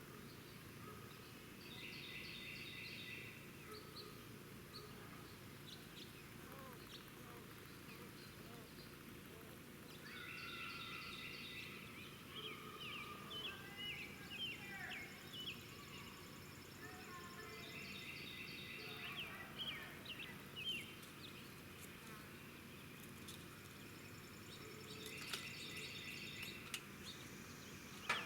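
Songbirds chirping faintly against a low steady background. A short song phrase comes back about every eight seconds, with quick chirps in between.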